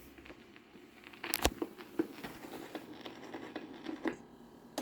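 Surface noise of an old phonograph record: faint crackle with scattered pops and clicks, one sharp pop about a second and a half in.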